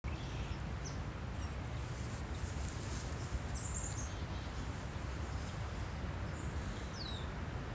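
Steady outdoor background noise with a low rumble, over which a few short, high bird chirps sound, one of them falling in pitch near the end.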